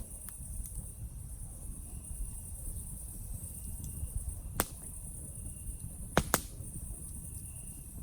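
Campfire crackling, with a sharp pop about four and a half seconds in and a louder double pop about six seconds in, over a low rumble. A steady high-pitched chorus of cicadas runs underneath, with a faint short chirp repeating every second or two.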